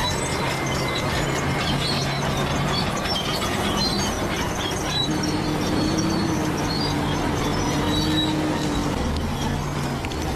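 Bulldozer at work: its diesel engine running steadily while the steel tracks squeal and clank.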